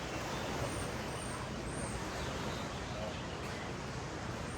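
Steady wash of ocean surf on a sandy beach, with faint voices of people in the background and a few quick high bird chirps about a second in.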